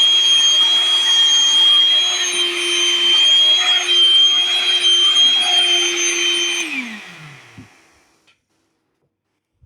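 Vacuum cleaner motor running steadily with a high whine. It is switched off about two-thirds of the way through and winds down, its pitch falling as it fades to a stop.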